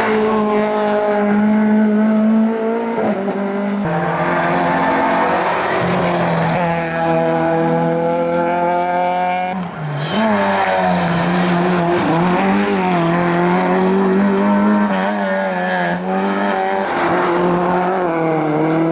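Hillclimb race car engine at high revs, the note climbing and breaking at gear changes about 3 and 10 seconds in, then wavering as the driver works the throttle. There may be some tyre squeal as well.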